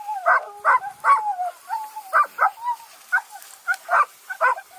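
Bird dogs yelping in quick short barks, about two a second, with a long wavering whine running through the first couple of seconds: excited hunting dogs eager to be let loose.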